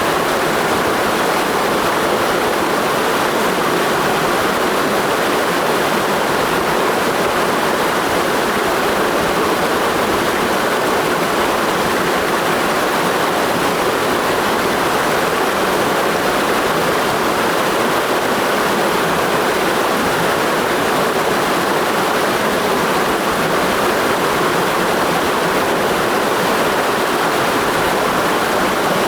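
Mountain stream rushing over rocks, a steady, even roar of flowing water.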